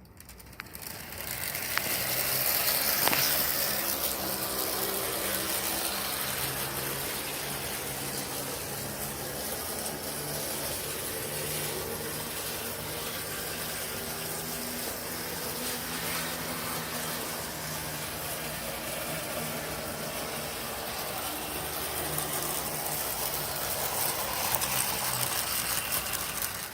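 Athearn HO scale FP-45 model diesel locomotive running on its track: the electric motor and gears give a steady, a bit noisy whir with wheel rattle. It builds up over the first couple of seconds and stops right at the end; the owner thinks a stronger transformer might make it run better.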